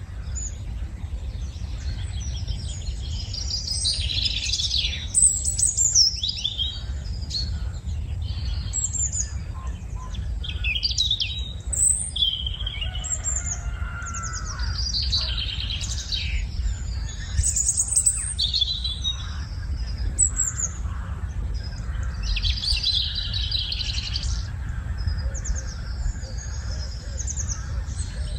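Several birds chirping and singing, short high chirps and trills coming one after another throughout, over a steady low rumble.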